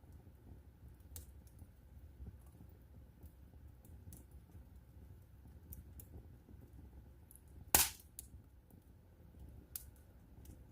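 Wood fire burning in a fireplace: a low rumble with scattered soft crackles, and one loud sharp pop about three-quarters of the way in, followed by a smaller one.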